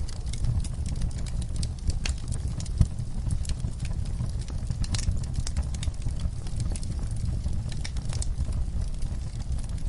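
Fire burning in a fireplace: scattered sharp crackles and pops over a steady low rumble of the flames.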